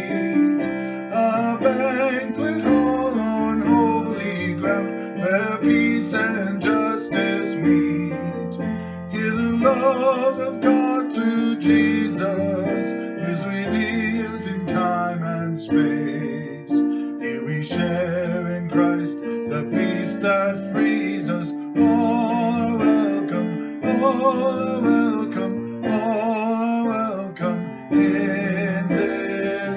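Hymn music: guitar and piano accompaniment under a melody line that wavers with vibrato, continuing without a break.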